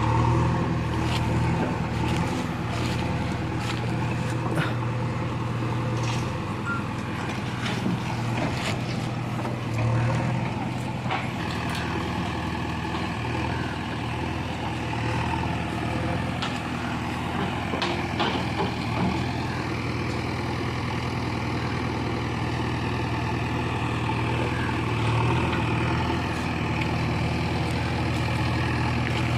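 Heavy diesel machinery engine running steadily, with scattered knocks and clatters.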